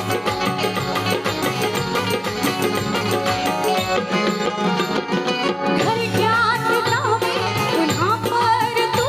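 Konkani jakhadi folk music, led by drums beating a steady rhythm under sustained instrument notes. A singing voice comes in about six seconds in.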